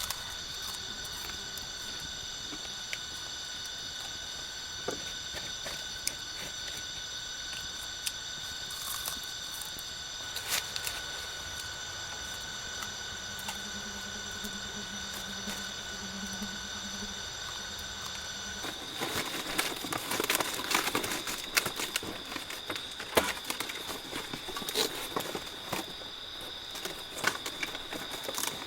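Steady high-pitched drone of forest insects with scattered clicks; about two-thirds of the way in, dense crackling and rustling starts and runs on until near the end.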